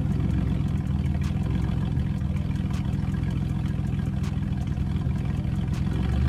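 Ford Mustang V8 idling with a steady deep burble, a few faint ticks over it and a small rise in level near the end. It sounds like a mostly stock V8 Mustang, probably with the mid mufflers taken off.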